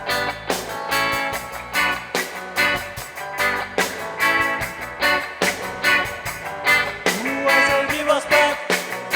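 Reggae band playing live, guitar prominent over a steady beat.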